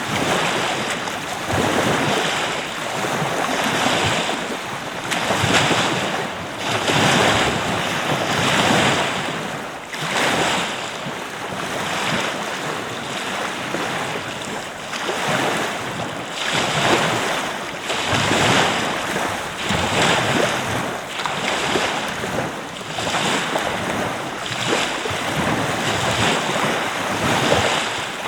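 Surf washing onto a beach, a continuous rush that swells and eases every second or two, with wind buffeting the microphone.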